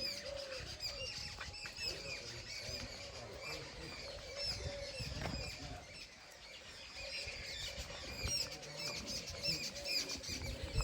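Many small birds chirping: a dense, constant run of short, high chirps, over a low rumble.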